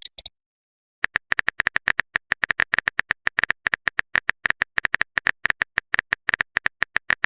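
Rapid run of short, identical electronic typing clicks, about six a second, starting about a second in: a text-typing sound effect as a message is written out.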